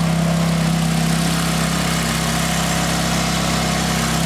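Ferrari F430's 4.3-litre V8 idling steadily, an even hum with no revving.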